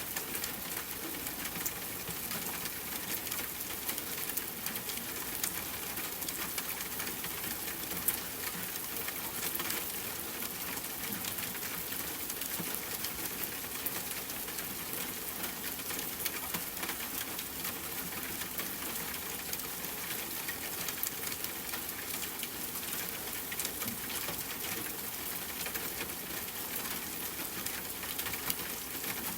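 Steady rain hiss mixed with a wood fire crackling: frequent small crackles and pops throughout, one sharper pop about eight seconds in.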